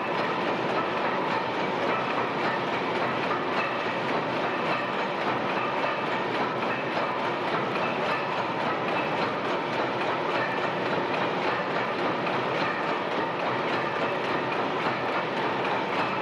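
Several large 400 HP Snow tandem natural gas engines, built 1911 to 1915, running together under full load as gas pumping engines: a steady, dense mechanical clatter of valve gear and firing with no change in pace.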